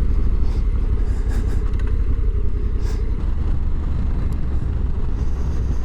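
Honda Africa Twin motorcycle under way: a steady low rumble of engine and wind noise.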